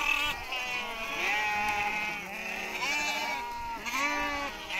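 A crowd of goats bleating, many calls overlapping one another without pause; the animals are thirsty and pressing around for water.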